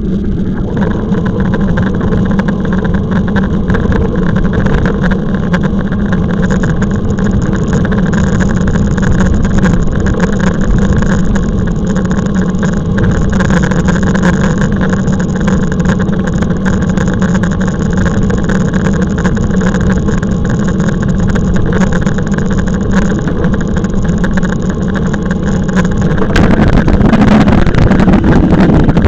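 Electric bike being ridden: a steady motor hum with tyre and wind noise on the microphone. Near the end the hum stops and the wind noise grows louder.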